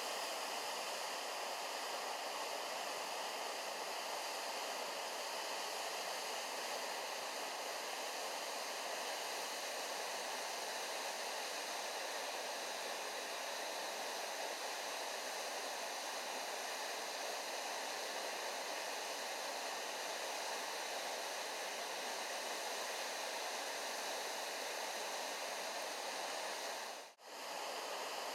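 Waterfall rushing in a steady, unbroken roar of falling water. The sound cuts out for a moment near the end, then resumes.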